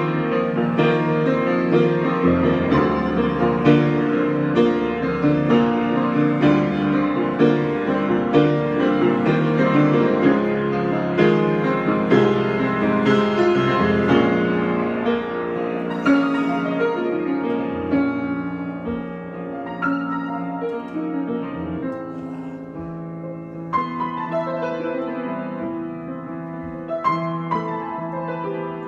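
Solo piano improvisation: dense, full chords and running notes that thin out and grow quieter through the second half.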